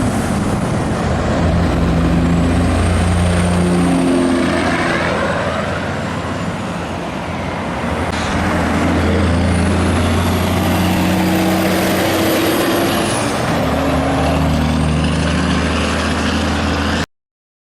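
Big-rig diesel truck engines running hard on a highway, the engine note stepping up and down as they pull through the gears, with a high whine rising and falling above them. The sound cuts off abruptly near the end.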